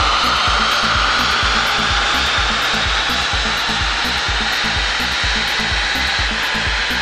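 BMW F10 518d's two-litre four-cylinder turbodiesel at full throttle on a chassis dynamometer during a power run: a loud, steady rushing with a whine that rises slowly in pitch as the revs climb. Electronic music with a steady beat plays underneath.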